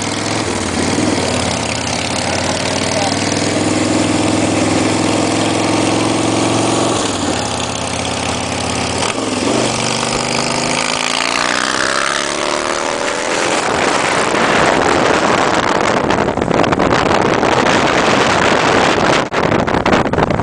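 Motorcycle engine running, mostly at idle, with its note shifting a few times, then a rushing noise that takes over about two-thirds of the way through as the bike gets moving.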